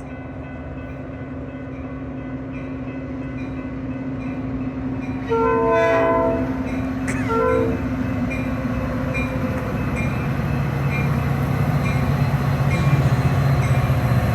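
Diesel train approaching, its engine hum growing steadily louder, with the locomotive's chime horn sounding twice about five seconds in: a blast of about a second, then a short one.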